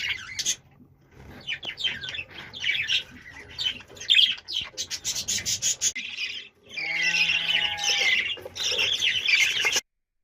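Budgies chirping and chattering in quick, high calls, with a longer buzzy call in the second half; the sound cuts off suddenly just before the end.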